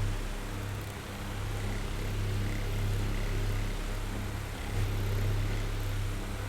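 Oscillating electric fan running: a steady low motor hum with a hiss of moving air, the loudness slowly dipping and swelling.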